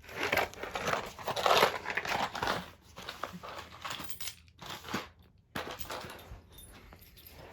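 Rummaging through a box: rustling and crinkling with small clattering knocks, busiest in the first two and a half seconds, then scattered clicks.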